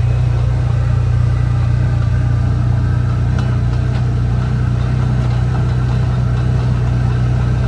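A vehicle engine running steadily with a constant low hum while driving, with a few faint ticks.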